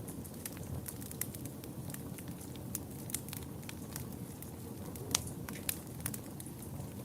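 Wood fire burning in a fireplace, with a steady low rumble and frequent sharp crackles and pops, one loud pop about five seconds in.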